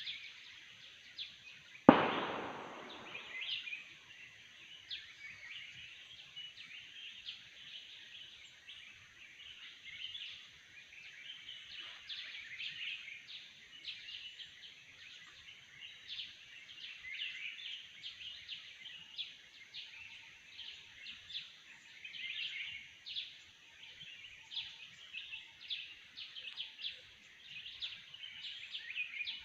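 A dense forest chorus of many birds chirping and calling, over a thin steady high tone. About two seconds in, a single sharp loud bang rings out and fades over a second or so.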